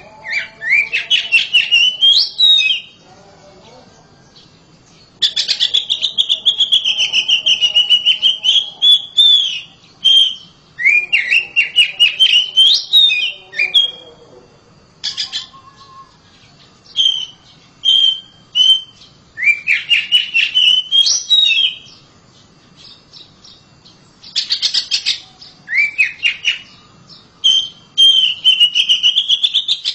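Oriental magpie-robin (kacer) singing loudly in bouts of a few seconds. Each bout is made of rising whistled phrases and rapid trills, and the bouts are separated by short pauses.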